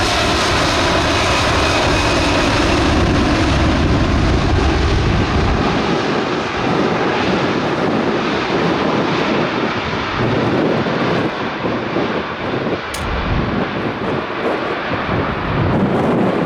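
Jet airliner's engines passing close by: a steady whine over a deep rumble, the rumble dropping away about six seconds in and leaving a loud rushing noise, with gusts of wind hitting the microphone.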